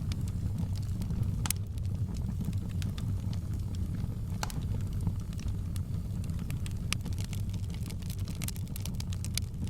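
Fireplace fire crackling: sharp pops scattered over a steady low rumble, the pops coming more thickly near the end.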